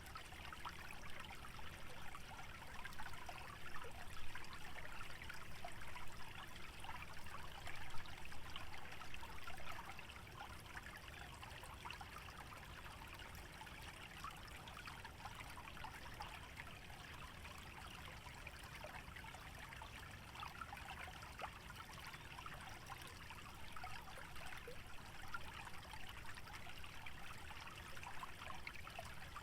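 Small wetland stream trickling and babbling steadily over shallows, a little louder a few seconds in.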